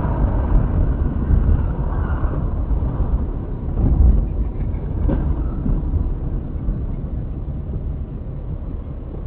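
Steady rumble of road and engine noise inside a moving car, swelling about four seconds in and slowly fading, with a faint tick about five seconds in.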